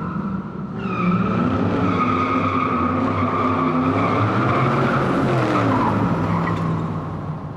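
Car engine running with a long, steady tire squeal over it, cutting off suddenly at the end.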